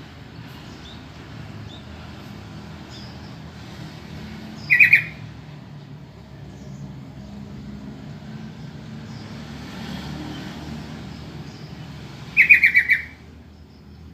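Yellow-vented bulbul calling: two short bursts of rapid, harsh chattering notes about eight seconds apart, the second a little longer. A low steady background hum runs underneath.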